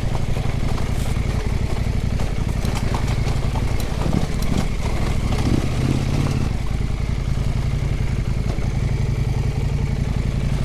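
Husqvarna Norden 901 adventure motorcycle's parallel-twin engine running at a low, steady pace on a slick dirt trail, with scattered clicks and rattles from the bike and the trail surface.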